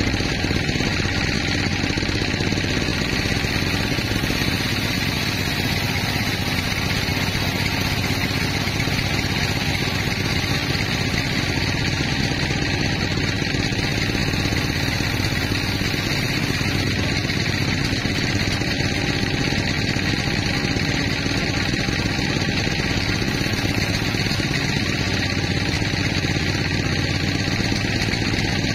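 Sawmill machinery running: a steady, unbroken engine-like drone with no pauses or changes.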